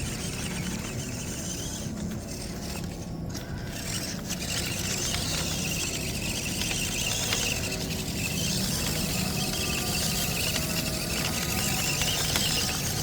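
MN99S D90 RC off-road truck's small electric motor and gearbox whining as it drives, a steady high-pitched whine that comes in about four seconds in and holds.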